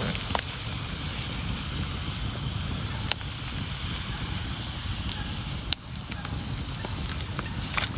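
Wood campfire crackling: a steady hiss with scattered sharp pops and snaps, a few louder ones about three, six and eight seconds in.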